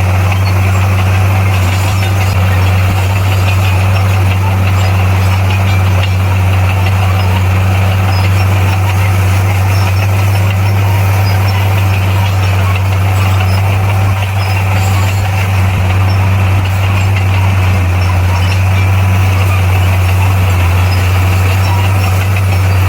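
Heavy diesel engine of a bulldozer running steadily, a deep, even drone with no change in speed.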